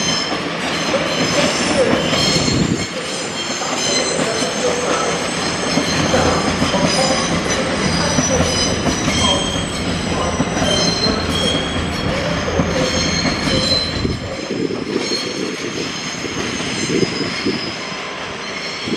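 CrossCountry train moving along the platform with a steady rumble, and high-pitched squealing that shifts in pitch throughout. The rumble eases about three-quarters of the way through.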